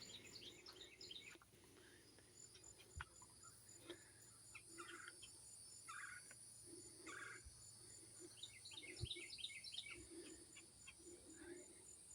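Near silence, with faint bird calls: short chattering phrases and scattered single calls, over a faint, even, high-pitched insect pulsing.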